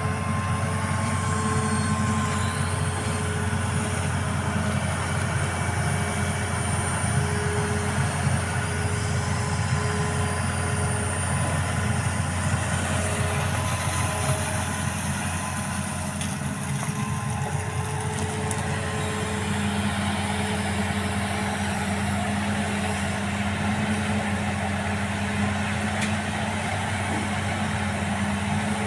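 Excavator's diesel engine running steadily under work, with a constant low drone and higher steady whines that fade in and out.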